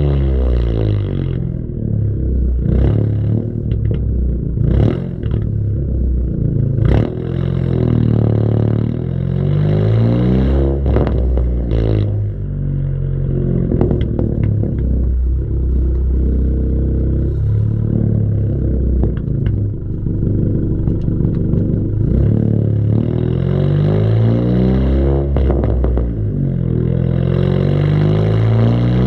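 Car engine and exhaust revving repeatedly, the pitch climbing and dropping again and again, with a few sharp clicks along the way.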